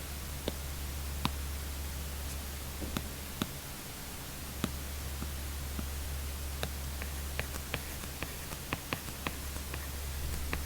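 Apple Pencil tip tapping and writing on an iPad screen: irregular sharp little clicks that come more often in the second half, over a steady low hum and hiss.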